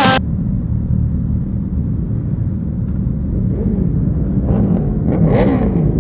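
Superbike engines running with a steady low rumble, wind on the microphone. About five seconds in, one engine briefly gets louder and rises in pitch as it revs.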